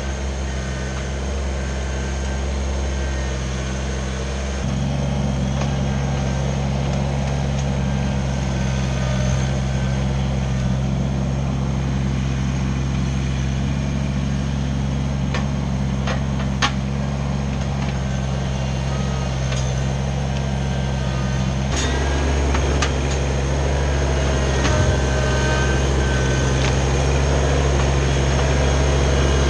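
Compact tractor's diesel engine running steadily. It grows louder about five seconds in and changes tone again a little past twenty seconds, with a few light clicks or knocks along the way.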